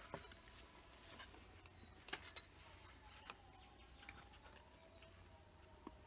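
Near silence, broken by a few faint clicks and taps.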